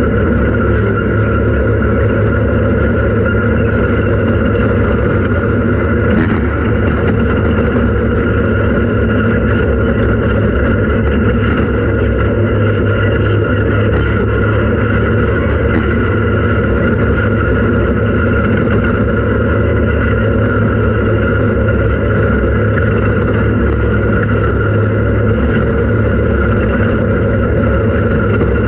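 Off-road race vehicle's engine running at a steady, unchanging pace, with no revving or gear changes.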